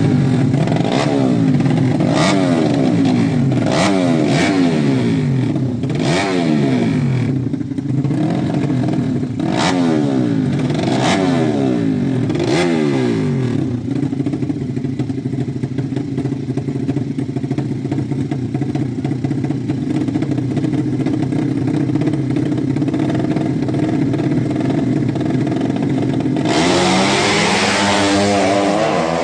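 Drag-racing motorcycle engines revving up and down over and over with sharp throttle blips, then settling into steadier running. Near the end a much louder engine comes in, rising in pitch as it accelerates hard.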